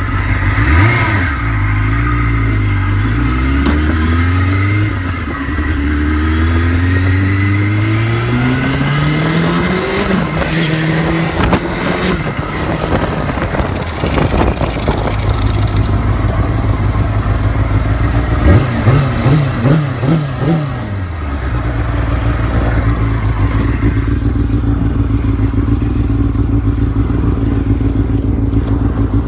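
Motorcycle engine pulling away in traffic, its pitch climbing and dropping back with each gear change through the first ten seconds. A quick run of short revs comes about eighteen to twenty seconds in, and then the engine runs steadily at low revs.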